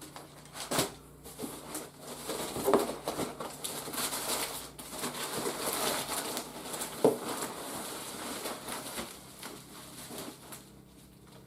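Toy packaging being handled and opened by hand: irregular rustling and crinkling with scattered light knocks and taps.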